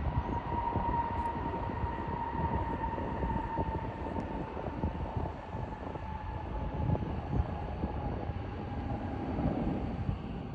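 Jet airliner's engines running as it passes: a steady whine slowly dropping in pitch over a low rumble.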